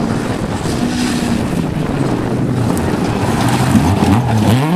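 Rally car engine on a gravel stage, its note steady at first, dropping about a second and a half in, then rising and falling quickly several times near the end as the revs come up and off. Gusting wind on the microphone runs under it.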